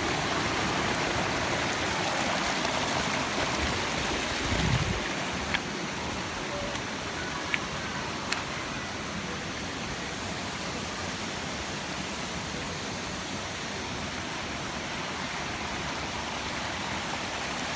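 Waterfall and its stream rushing steadily, an even roar of falling water. A few faint clicks sound over it around the middle.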